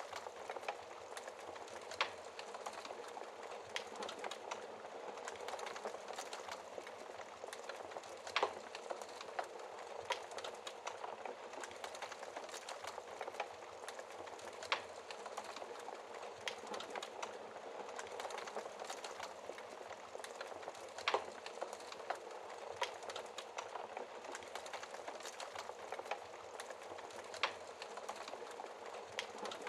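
Wood fire crackling in a fireplace: a steady hiss of burning with frequent small crackles and an occasional louder pop every several seconds.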